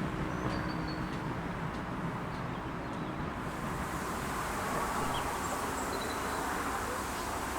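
A steam-hauled train running by with a steady rumble; a higher hiss comes in about halfway through.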